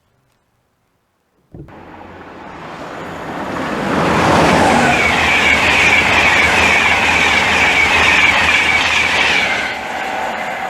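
Class 91 electric locomotive and Mark 4 coaches passing at speed: a rush of wheel and rail noise that starts abruptly about a second and a half in, builds and stays loud for several seconds, then eases a little near the end.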